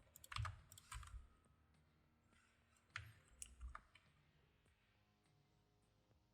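Faint clicks of a computer keyboard and mouse, a couple in the first second and a short cluster around three seconds in, with near silence between.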